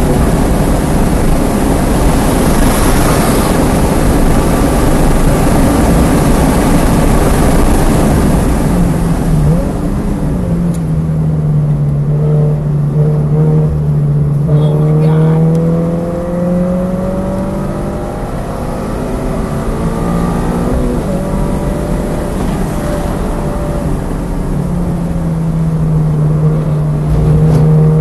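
Subaru BRZ's flat-four engine and rushing wind heard from inside the cabin at full speed on a race track. About ten seconds in the noise falls away as the car slows hard for a corner. The engine note then rises again as the car accelerates out, climbing in pitch near the end.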